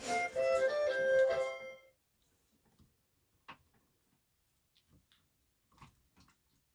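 Electronic tune from a baby's toy walker, a keyboard-like melody that stops abruptly about two seconds in. A few faint taps and knocks follow.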